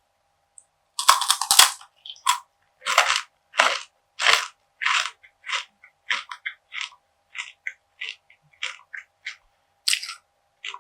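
Close-miked bite into a crunchy perilla seed gangjeong bar about a second in, followed by rhythmic crunchy chewing, about two chews a second, growing softer; another sharp crunch near the end.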